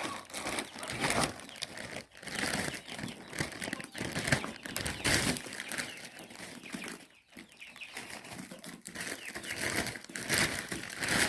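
Plastic bag of frozen mixed berries crinkling and rustling as it is handled and shaken, on and off with a few short pauses.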